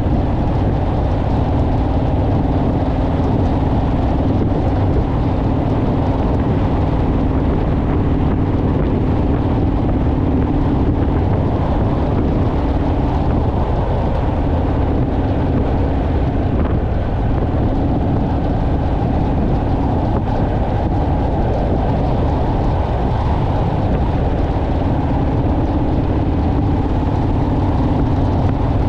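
Honda Rebel motorcycle's parallel-twin engine running at a steady cruising speed, with wind rushing over the microphone. The engine note eases off for a few seconds around the middle, then picks up again.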